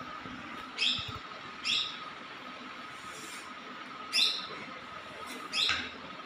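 A bird chirping: four short, sharp calls at uneven intervals, over a faint steady high hum.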